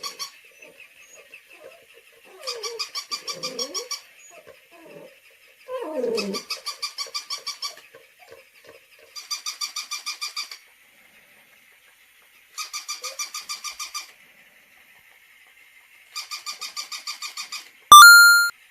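Electronic toy dog giving out bursts of rapid, mechanical-sounding yapping, each about a second and a half long and repeating every few seconds. In the first half a real dog's softer, low whines come between the bursts. Near the end there is a brief, very loud electronic tone.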